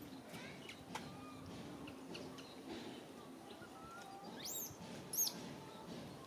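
Birds chirping: scattered short, high calls and whistles, with two sharper rising-and-falling calls between four and five seconds in, the second the loudest.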